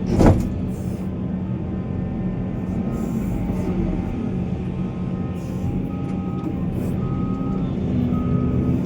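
Heavy diesel mining machinery engine running steadily, with one loud clank about a quarter-second in and short repeated high tones in the second half.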